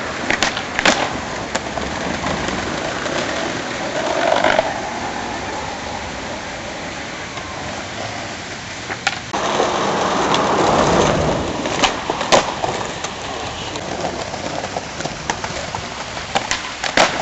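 Skateboard wheels rolling on pavement with a steady rumble that swells for a couple of seconds near the middle, broken by several sharp board clacks and landings.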